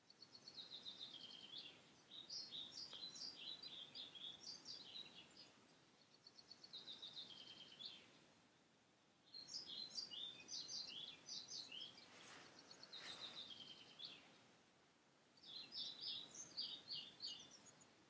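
A songbird singing, faint, in about six phrases of quick high notes, each a second or two long with short pauses between.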